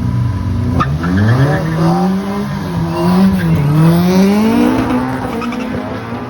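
Drag-racing car launching off the line about a second in, its engine revs climbing hard with two short drops in pitch at the gear changes as it accelerates down the strip.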